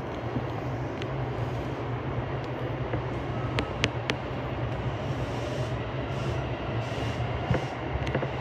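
Interior sound of a JR Keihin-Tohoku line commuter train car: a steady low hum and rumble, with a few sharp clicks about three and a half to four seconds in.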